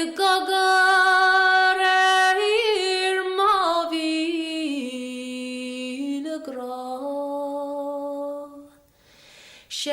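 A solo voice singing an unaccompanied song in Irish, holding long notes that slide slowly from pitch to pitch. There is a short pause for breath near the end.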